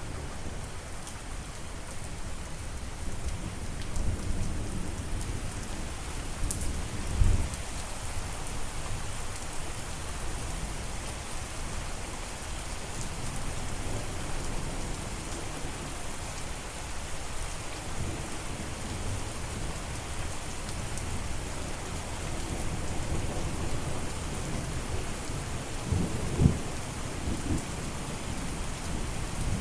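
Steady rain falling, with low rumbles of thunder. Two short, louder low thuds come about seven seconds in and near the end.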